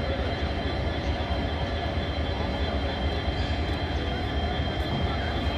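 Passenger coaches of the departing Bikaner–Bandra Terminus Express rolling away along the track, a steady low rumble of wheels on rails.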